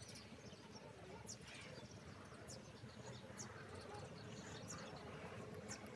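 Faint bird chirps, short high notes about once a second, over a low outdoor background rumble.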